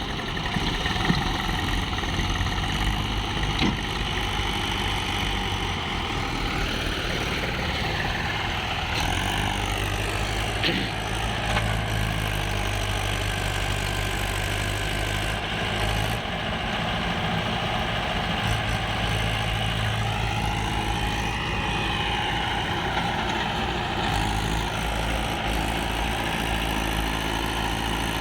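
Swaraj tractor's diesel engine running steadily while hauling a trolley loaded with sand. Its note rises and falls twice, a little under halfway in and again near the three-quarter mark.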